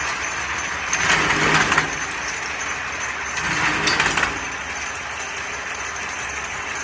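Bamboo thinning machine running steadily, with two louder stretches: one about a second in, and another around three and a half to four seconds.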